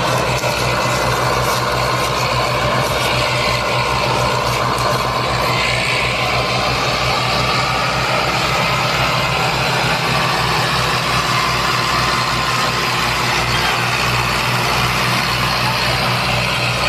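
Tractor's diesel engine running steadily, with an even low firing beat.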